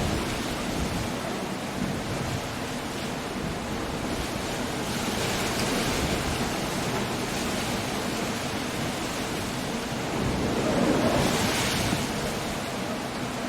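Storm surf and wind on a rocky coast: a steady rushing noise of breaking waves that swells louder once, about eleven seconds in.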